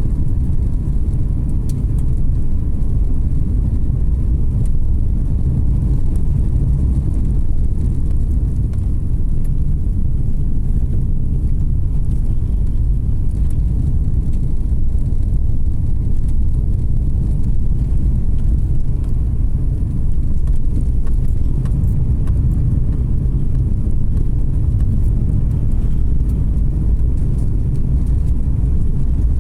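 Car driving along a road: a steady low rumble of engine and tyre noise with no change in pace.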